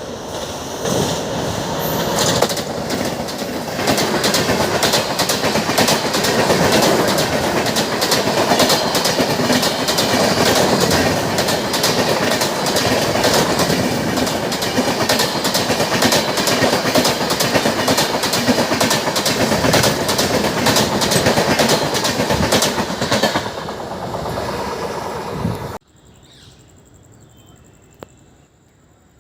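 Train passing close by, with a rapid run of wheel clicks over the rail joints. The sound eases off and then cuts off suddenly near the end.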